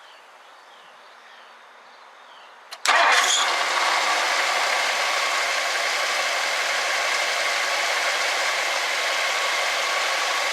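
1964 Ford Thunderbird's V8 engine starts about three seconds in and settles into a steady idle. Before it starts, only faint bird chirps are heard.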